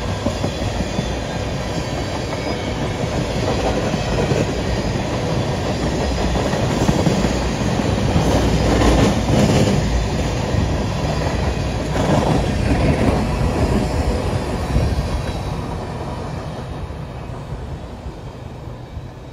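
Freight train of tank cars rolling past, steel wheels clacking and rumbling on the rails, then the sound fades as the end of the train pulls away.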